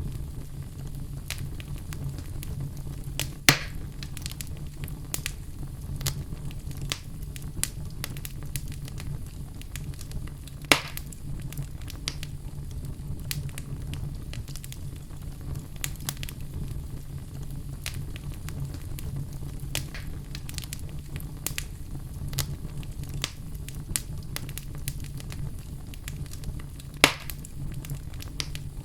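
Fire burning in a fireplace, with a steady low rumble and constant small crackles. Three louder sharp pops stand out: one about three seconds in, one about eleven seconds in, and one near the end.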